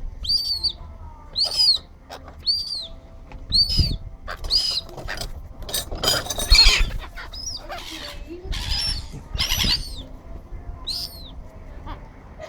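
Gulls calling: short, high, arched calls repeated about once a second. A loud rustling burst comes about six and a half seconds in.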